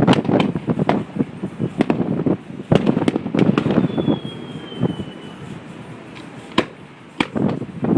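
Fireworks display: rapid bangs and crackling bursts that thin out about halfway through, with a thin falling whistle around the middle and a few single sharp reports near the end, heard through a cell phone's microphone.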